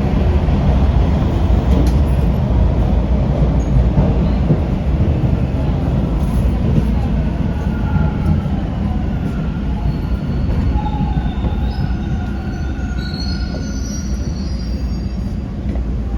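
Toronto subway train running between stations, a heavy steady rumble of wheels on track heard from inside the car. From about halfway through, thin high wheel squeals come in, climbing in pitch before fading near the end.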